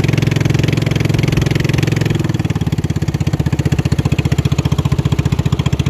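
Racing boat's engine running loudly and steadily, then slowing about two seconds in to a lower, pulsing beat as the throttle comes off.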